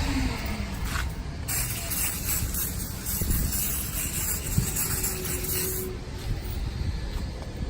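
A steady spray hiss for about four seconds, starting about a second and a half in, over a low rumble.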